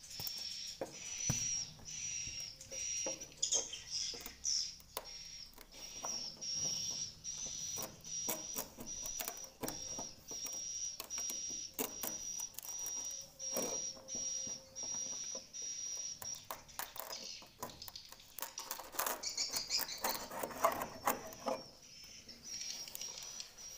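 Swiftlet calls: a high chirp at one pitch repeated about twice a second, among many sharp rapid clicks. About 18 seconds in, the chirping gives way to a louder jumble of twittering and rustling for a few seconds.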